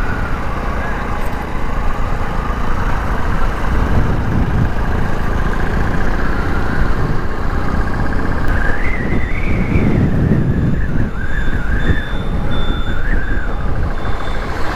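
Motorcycle riding on the road: wind rumbling on the microphone over the running engine. In the second half a wavering high-pitched tone rises and falls for several seconds.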